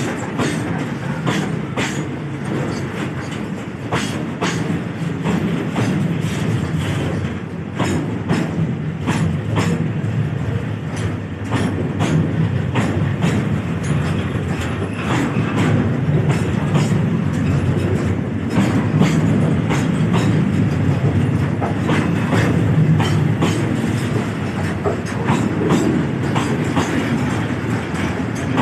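A train rolling past close by, its wheels clicking over the rail joints in a steady clickety-clack over a low, continuous rumble.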